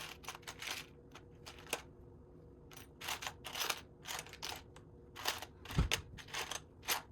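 Loose plastic Lego pieces clicking and clattering in quick clusters as hands rummage through them for a part, with a dull thump about six seconds in.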